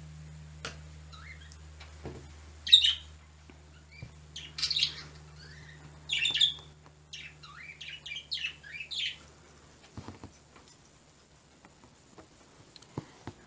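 Pet birds chirping and calling in short bursts, the loudest call about three seconds in, with a cluster of quick chirps in the middle.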